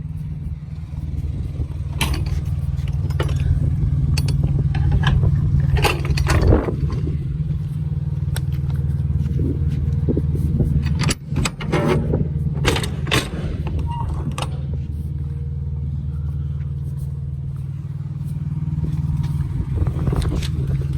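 Semi-truck diesel engine idling with a steady low hum, with repeated metallic clanks and rattles over it, several in quick clusters.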